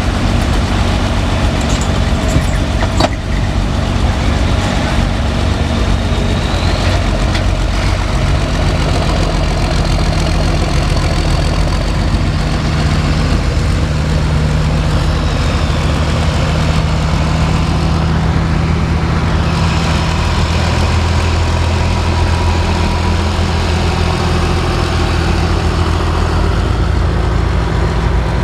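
Tractor-pull tractor engine running loud and steady, its pitch stepping up about eight seconds in, with a faint high whine above it that rises and falls once about two-thirds of the way through.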